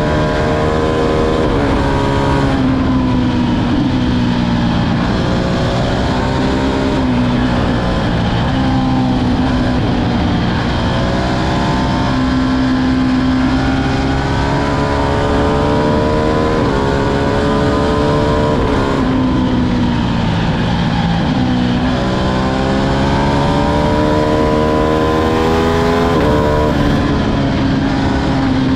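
Ducati Streetfighter V2's V-twin engine under way, its revs climbing again and again with sudden drops between gears and slower falls as it eases off.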